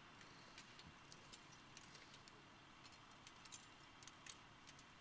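Faint, irregular crackling clicks, a few each second, over a quiet background.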